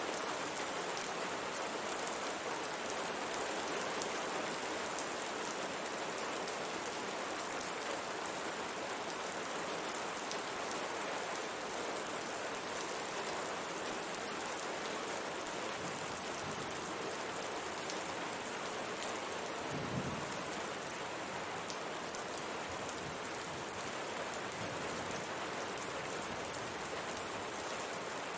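Steady rain pattering on a window pane, with fine ticks of single drops striking the glass. About two-thirds through there is one brief low thud.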